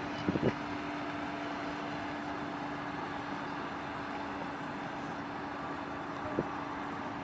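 Car engine idling as the sedan creeps backwards into a parking bay on the brake alone, a steady low hum over outdoor background noise. A couple of short faint sounds come about half a second in and another past six seconds.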